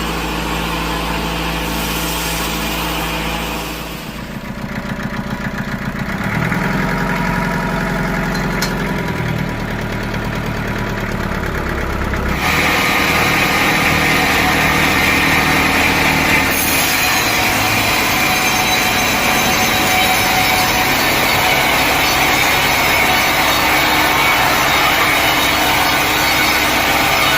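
Sawmill machinery: an engine running steadily, its tone shifting after about four seconds, then from about twelve seconds in a saw cutting through a log, louder and steady.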